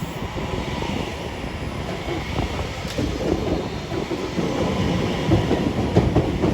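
Class 331 electric multiple unit running past along the track, its wheels rumbling over the rails, getting a little louder and more uneven in the second half.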